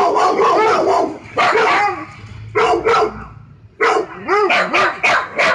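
A dog barking in irregular bursts: a dense run of barks at the start, two short barks about one and a half and two and a half seconds in, then a quick string of about five barks near the end.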